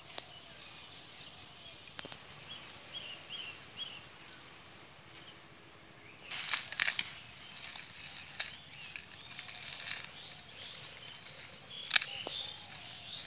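Outdoor rural ambience: a small bird gives four quick high chirps about three seconds in. Later come brief rustles and crackles, the sharpest near the end, as a hand handles a pile of cut grass and stalks.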